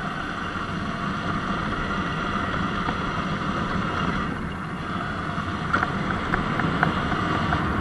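Sur-Ron Light Bee electric dirt bike riding along a dirt road: a steady rush of wind on the microphone and tyre noise. A few small clicks come in near the end.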